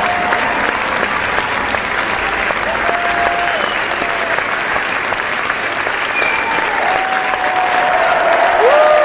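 Sustained applause from a crowd, many hands clapping in a dense, steady patter. A few voices call out over it in long held calls, and it gets a little louder near the end.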